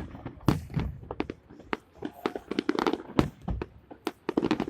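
Fireworks salute going off: a rapid, irregular run of sharp bangs and cracks, several a second, some followed by a brief echo.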